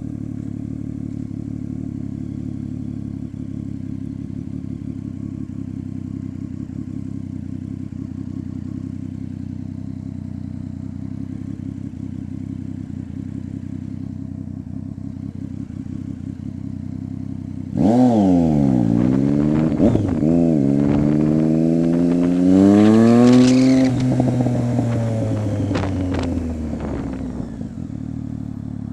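2015 Triumph Street Triple 675's inline three-cylinder engine idling steadily through an unbaffled Coffeman aftermarket exhaust, then revved: two quick blips a little past halfway, a longer rev held for a couple of seconds, then settling back to idle near the end.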